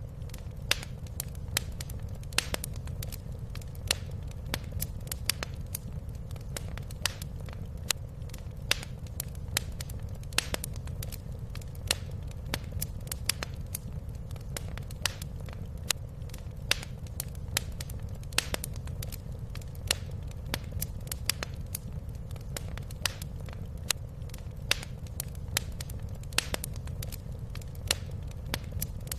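Wood fire crackling in a fireplace: a steady low rumble of the flames with frequent sharp pops and snaps at irregular intervals.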